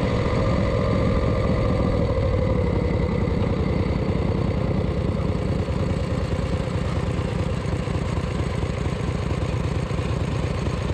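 Engine of a 1951 Harley-Davidson Pan-Shovel, a V-twin, running steadily as the motorcycle is ridden at low road speed. Its note eases down a little over the first few seconds, then settles into an even lope.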